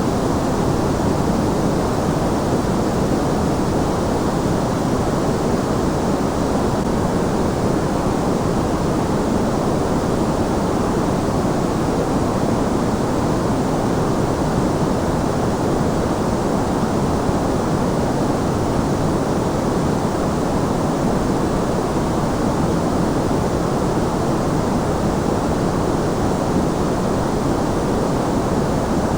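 Steady white-noise sleep sound: an even, unbroken hiss with no rhythm or events, weighted toward the low end.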